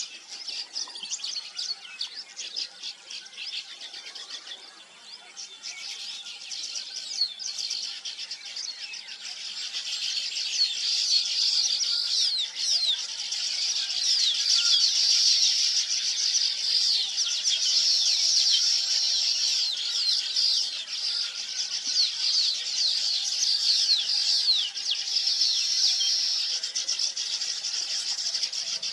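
A flock of small birds chirping together in a dense, unbroken chorus of quick high calls, growing louder about a third of the way in.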